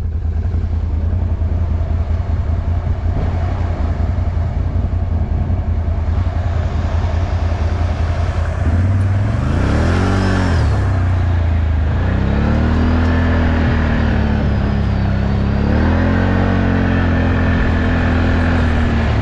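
ATV engine running, then revved hard from about nine seconds in: the pitch climbs and falls, then holds high with small wavers for the last several seconds, typical of throttling through or out of a mud hole.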